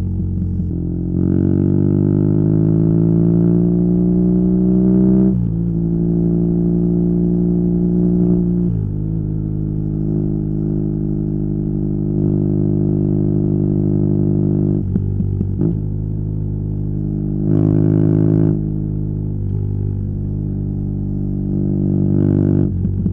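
BMW R nineT's boxer twin running through a Competition Werkes slip-on exhaust while riding. The engine note rises under acceleration and drops sharply about five seconds in and again near nine seconds as it shifts up. It then holds a steady cruise, with short louder bursts of throttle around eighteen seconds and near the end.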